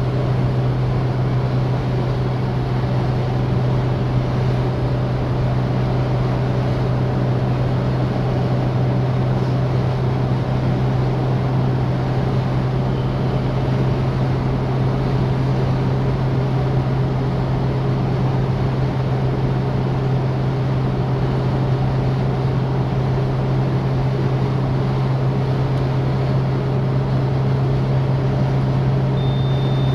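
Citroën DS four-cylinder engine and road noise while driving at a steady speed: an even, unchanging low drone with a steady rush over it.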